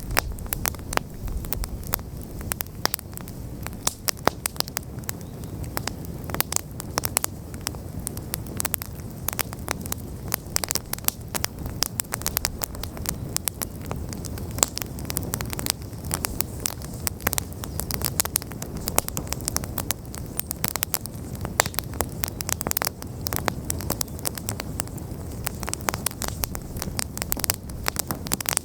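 Wood fire burning: a dense, irregular stream of sharp crackles and pops over a low steady rush of flame.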